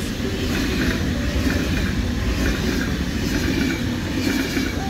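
Passenger train coaches rolling past close by at speed: a steady rumble of steel wheels on the rails with irregular clattering.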